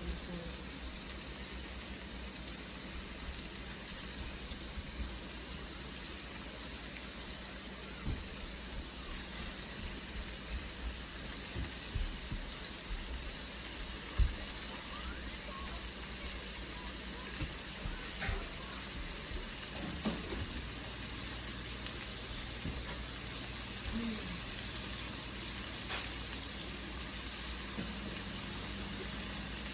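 Meatballs sizzling steadily as they brown in hot olive oil, with a few light knocks now and then.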